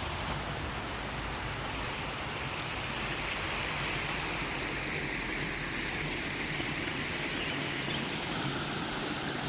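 Creek water running over rocks: a steady, even rush of shallow flowing water.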